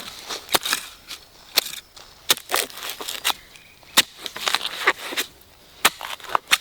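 Irregular crisp crackling and snapping, a few sharp snaps a second over a softer rustle, as of dry plant material such as leaves or husks being crushed or broken by hand.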